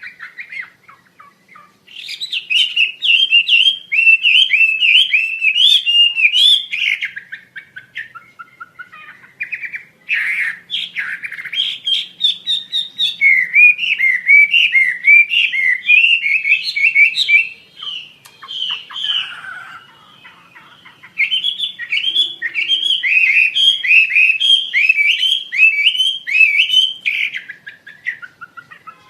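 Asian paradise flycatcher (wambi) singing: phrases several seconds long of quick, repeated up-and-down whistled notes, broken by short pauses.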